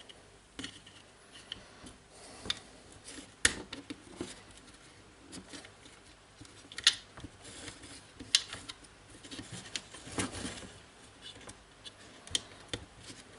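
Jigsaw parts being handled on a workbench: irregular small clicks and knocks of metal and plastic, with a short scrape of rubbing a little past the middle. The sharpest knocks come about three and a half seconds in and about seven seconds in.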